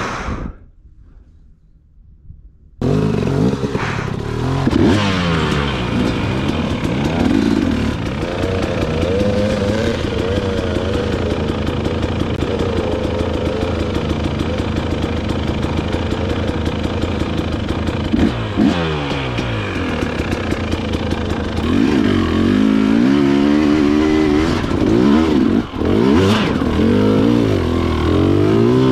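Dirt bike engine being ridden, its revs rising and falling again and again as the throttle is worked. It comes in loud about three seconds in, after a quieter start.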